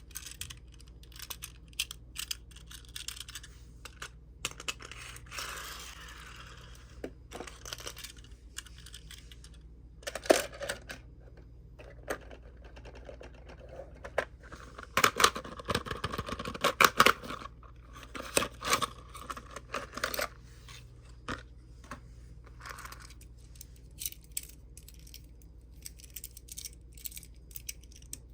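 Tomica die-cast minicars and plastic toy parts handled on a table: scattered light clicks and taps of metal and plastic, with spells of rustling about five seconds in and again around fifteen to seventeen seconds.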